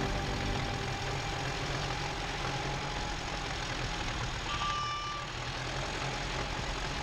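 Tractor engine running steadily, with a short high tone about four and a half seconds in.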